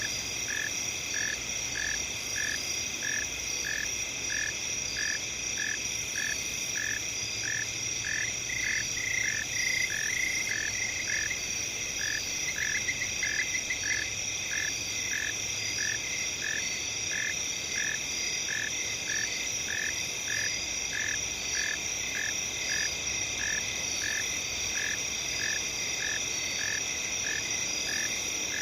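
Night-time field chorus of crickets and other insects: a steady high shrill drone with a lower chirp repeating evenly, about three chirps every two seconds, and a couple of brief faster trills partway through.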